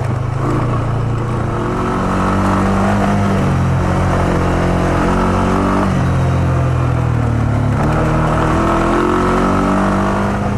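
Honda ATV engine running while the quad is ridden along a bumpy trail. The engine note rises and dips a few times as the throttle changes.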